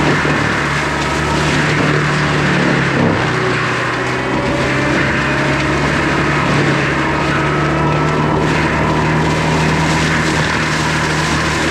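Skid steer engine running steadily under working load while clearing brush, a constant low hum under a dense mechanical din, with a short dip in the low hum about three seconds in.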